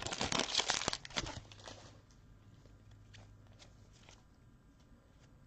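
A trading card pack wrapper being torn open and crinkled, a dense crackling for about the first two seconds, then only a few faint clicks as the cards are handled.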